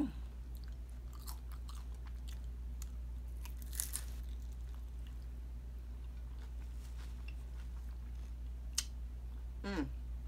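Loaded tortilla-chip nachos being bitten and chewed, with sparse sharp crunches of the chips. A steady low hum sits underneath, and a short falling vocal murmur comes just before the end.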